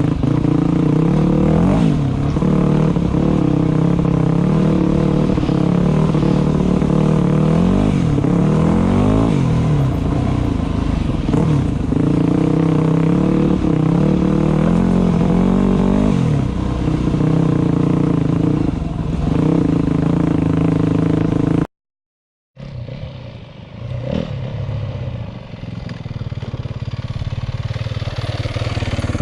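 Dirt bike engine running under load, the revs rising and falling again and again as it is ridden over rough trail, with some clatter and scraping. The sound cuts out for a moment about three-quarters of the way through and comes back quieter.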